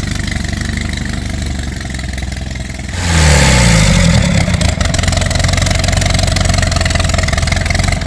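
GM 3.0-liter inline-four engine of a mini rail dragster idling through a custom exhaust, then blipped hard about three seconds in, its revs sliding back down over about a second before it runs on steadily, louder than before.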